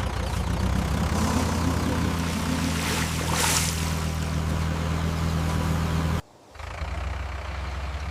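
Tractor engine running steadily, with a brief hiss about three seconds in. The sound cuts out suddenly about six seconds in and picks up again a little quieter.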